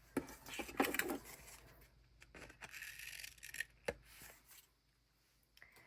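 Sticker sheets and journal paper being handled: soft rustling and scraping with a few small clicks, dying away near the end.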